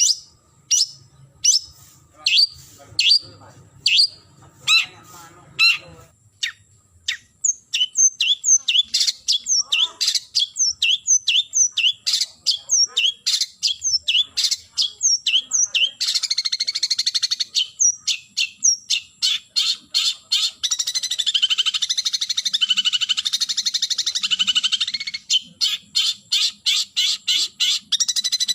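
Long-tailed shrike (cendet) calling harshly and repeatedly, a rival-challenging call. The calls come about one a second at first, then faster with sharp downward sweeps, and break into a dense rapid chatter past the middle.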